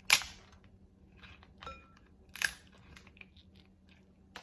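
King crab leg shell cracking as it is pried open: two sharp cracks about two seconds apart, with small crackles and clicks of the shell between them.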